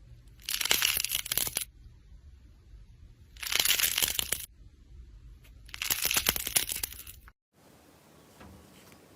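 Slime being squeezed and pressed by hand, giving three crackling, crunchy bursts of about a second each.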